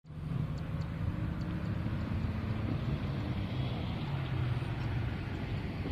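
Honda Legend Coupe's 3.2-litre V6 engine and exhaust running steadily, its pitch holding about level with no climbing rev.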